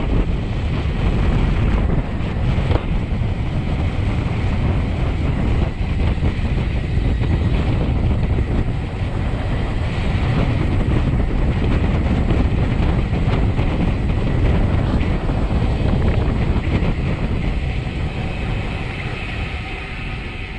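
Wind rushing over the microphone of a road bike descending a mountain pass at speed, a steady, loud noise that eases off near the end.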